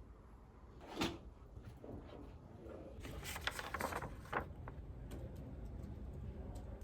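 Faint handling noise: a soft knock about a second in, then a cluster of light clicks and rustles a few seconds later, over a low steady rumble.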